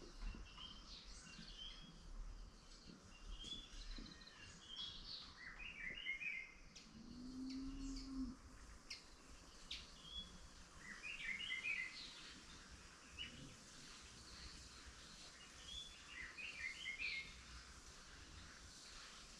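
Songbirds chirping and calling, faint, with one bird repeating a quick cluster of high notes about every five seconds. About a third of the way in there is a single low, drawn-out call lasting about a second.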